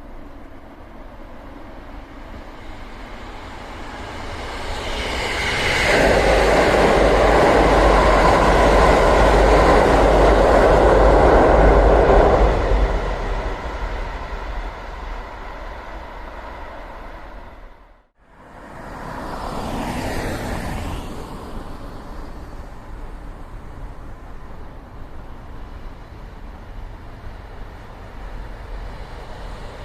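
A train passes close by: its rumble builds for a few seconds, stays loud for about six seconds, then fades away. After a brief cut-out of sound, a second, quieter swell of train noise rises and settles.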